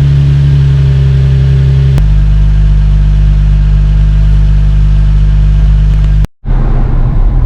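Infiniti G35's VQ V6 idling steadily through a titanium exhaust. The sound changes abruptly about two seconds in and drops out briefly near the end, like edit cuts.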